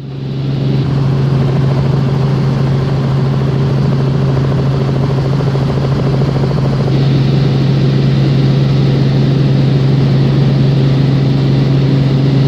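Helicopter sound for a toy helicopter in flight: a steady engine-and-rotor drone with a constant low hum, rising in at the start, with a little more hiss from about seven seconds in.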